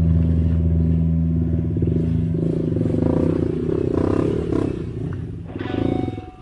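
Honda CRF150L's single-cylinder four-stroke engine running at low revs, its pulsing firing growing stronger from about two seconds in and dropping away near the end.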